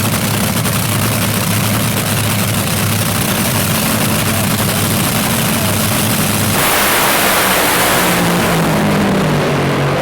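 Drag racing engine held at steady high revs, then a louder rush of noise about six and a half seconds in, with the engine note falling in pitch near the end.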